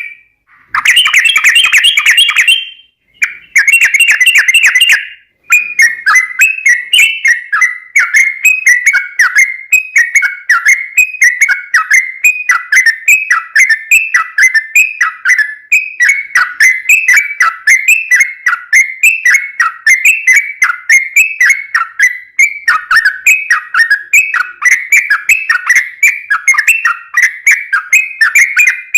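Yellow-vented bulbul (trucukan) singing loudly: two dense bursts of bubbly chatter in the first few seconds, then a steady run of short falling notes, about three a second.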